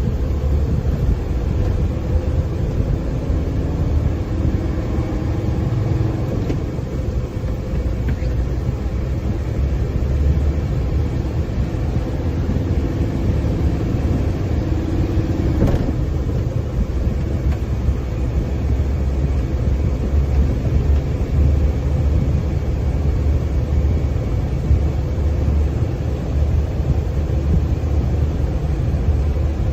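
Hino diesel engine of a 4-ton UD Condor truck running, a steady low rumble, with a faint whine rising in pitch twice.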